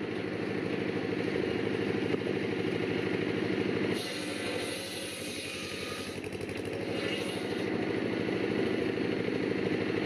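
Engine running on a homemade hydraulic log splitter, a steady mechanical drone that eases off a little about four seconds in and builds again later.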